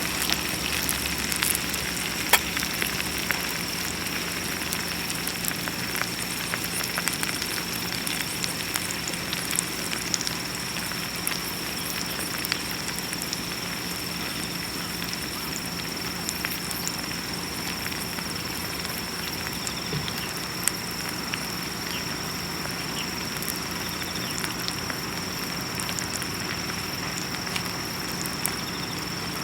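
Wood fire burning in a VIRE rocket stove, with many small crackles over a steady hiss and some sizzling from a frying pan. A steady high-pitched tone sits under it.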